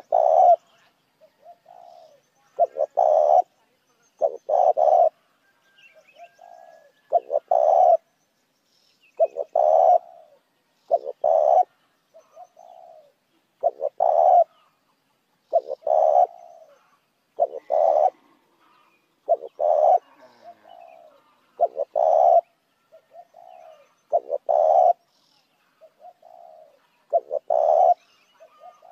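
Spotted dove cooing over and over in a steady repeating phrase: loud low coos with softer notes between, used as a lure call to draw other doves.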